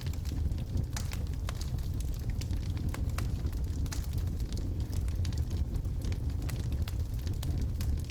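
Wood fire burning in a fireplace: a steady low rumble of the flames with many sharp, irregular crackles and pops from the burning logs.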